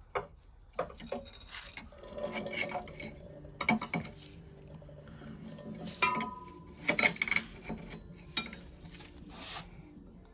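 Irregular metallic clinks and taps of steel hand tools, a punch being worked against the engine's gear, with a short ringing tone about six seconds in.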